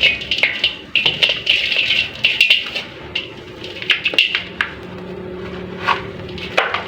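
Dusty clay being crumbled and worked into water or paste, giving an irregular run of crisp crackles and crunches that thin out after the first few seconds. A steady low hum comes in about halfway.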